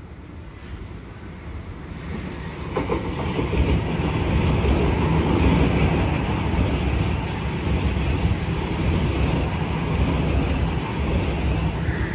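An electric suburban passenger train running past a station platform: the rumble of its wheels and motors grows louder over the first few seconds and then stays loud and steady.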